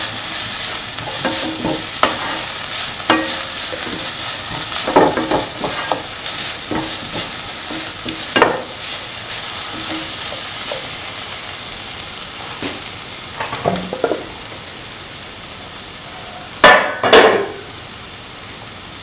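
Onions, shallots and spice paste sizzling in hot oil while being stirred and scraped around the pan, with scattered short scrapes. The sizzle is quieter in the last few seconds, and near the end there are two loud knocks close together.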